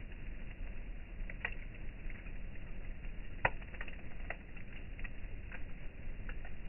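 Campfire crackling: irregular pops and snaps of burning wood over a low steady rumble, with the sharpest pop about halfway through.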